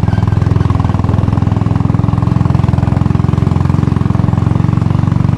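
Royal Enfield Bullet's single-cylinder four-stroke engine running steadily, its firing pulses coming in a rapid, even beat.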